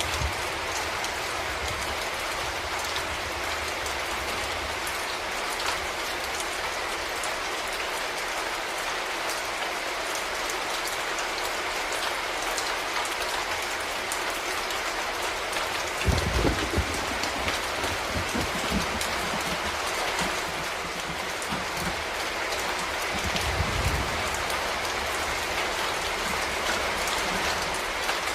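Steady rain falling, a dense even hiss with fine drop ticks. Low rumbles come in about halfway through and again near the end.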